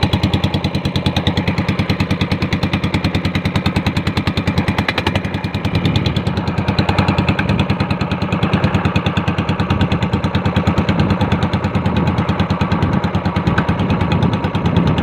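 Small engine of a bangka outrigger boat running steadily with a rapid, even chugging beat; it dips briefly about five seconds in, then picks up again.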